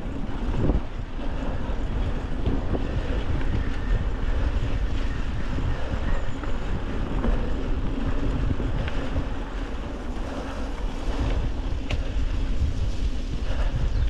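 Wind buffeting the microphone over the rumble of a mountain bike rolling along a rough trail, with one sharp click near the end.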